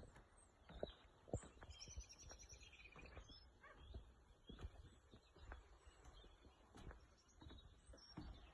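Faint birdsong: scattered high chirps with a short trill about two seconds in, over a low rumble and soft knocks.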